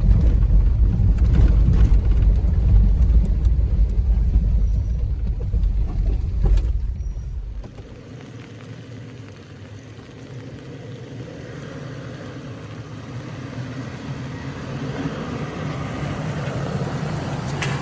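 2018 Toyota 4Runner TRD Off-Road driving a rough dirt trail: a heavy, uneven low rumble of engine and tyres that drops suddenly to a much quieter, steady drive noise about eight seconds in.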